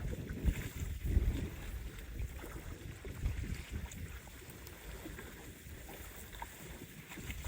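Strong wind gusting and buffeting the microphone over choppy lake water splashing against the shore, stronger in the first two seconds and again near the end.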